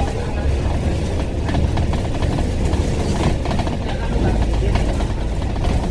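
Hong Kong bus cabin while the bus is moving: low engine and drivetrain drone with rattling of the body and fittings, and passengers talking in the background. The low drone drops in pitch about four seconds in.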